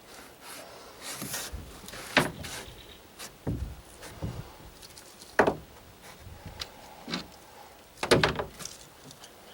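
Scattered sharp knocks, the loudest about two, five and eight seconds in, with duller thumps and light rustling between: hands at work inside a boat hull, setting up fiberglass cloth and resin.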